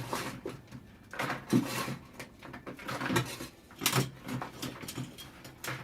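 Scattered knocks and clatter at an uneven pace, with brief faint voices in between.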